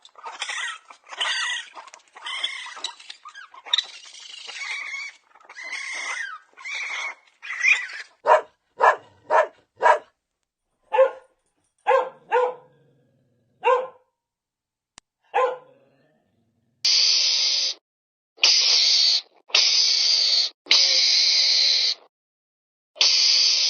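A dog yelping and whining, then giving a series of short single barks about a second apart. Near the end comes a run of harsh, noisy bursts about a second long each, with short silent gaps between them.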